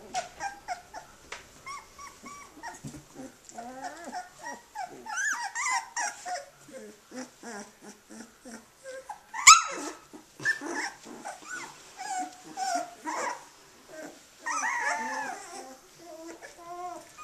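Litter of 18-day-old Australian Shepherd puppies crying and squeaking, many short rising-and-falling cries overlapping one another, with one loud sharp yelp about halfway through.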